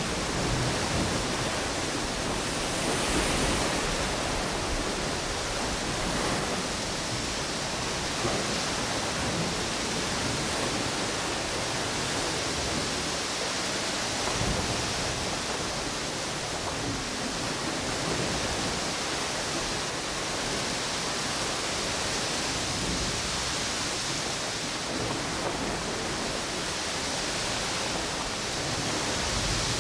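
Strong wind and ocean waves on a beach: a steady rushing noise with small swells every few seconds.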